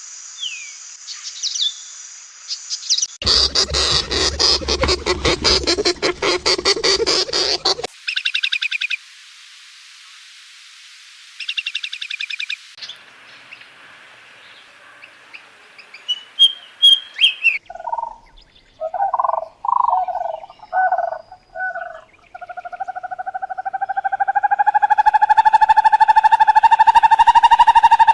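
A run of different animal calls, one after another: bird chirps, fast pulsing trills, a few short calls, and near the end one long, loud, steady call.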